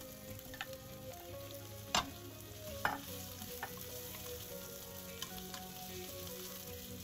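Beef brisket cubes, onion and garlic sizzling in oil in a nonstick frying pan while a wooden spatula stirs them. Two sharp clacks stand out, about two and three seconds in.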